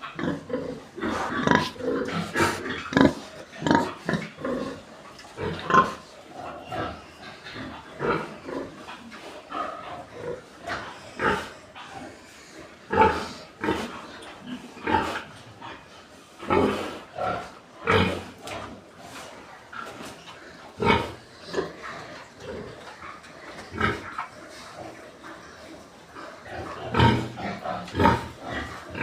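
Animals making many short, irregular calls one after another, several a second at the busiest.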